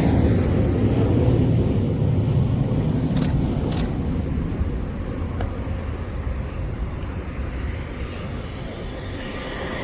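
Kawasaki T-4 jet's twin turbofans rumbling as it moves away, a low, noisy roar that fades slowly, just after a loud pass.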